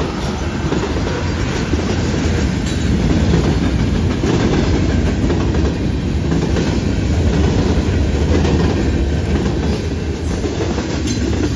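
Loaded freight cars of a passing train rolling by: a steady rumble of steel wheels on rail, with a clickety-clack as the wheels cross the rail joints and the junction switch.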